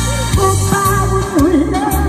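A singer sings a slow Korean ballad with wide vibrato over instrumental accompaniment with a steady bass pulse.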